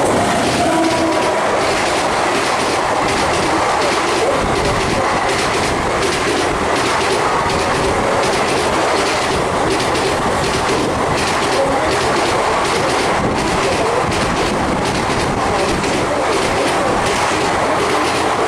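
Passenger express train running at speed: a steady loud rumble of coaches with wheels clattering over rail joints.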